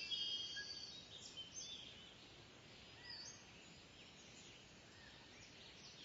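Kingfisher calling: a run of high, shrill notes in the first second or so, then scattered short, sharp calls over a faint, steady hiss.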